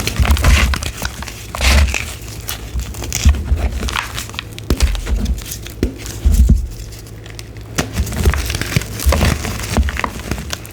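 Blocks of gym chalk being crushed and crumbled close to the microphone: irregular crunches and crackles with dull thumps.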